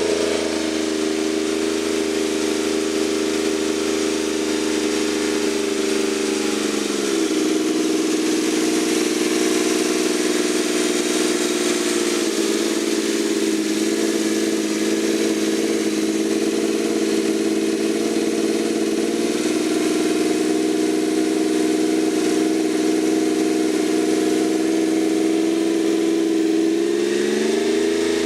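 Suzuki K6A 658 cc three-cylinder engine running on its own, with no turbocharger fitted. It runs steadily, its speed drops to a lower steady note about seven seconds in, and it climbs back up just before the end.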